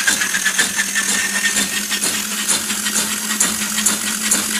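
Electric drain-cleaning machine running, its motor giving a steady hum and a high whine over a fast metallic rattling of ticks and clinks.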